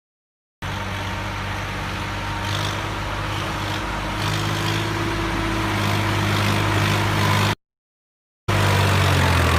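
RC model tractor running with a steady, low engine drone that slowly grows louder. It starts abruptly about half a second in, cuts out for about a second near the end, and then resumes.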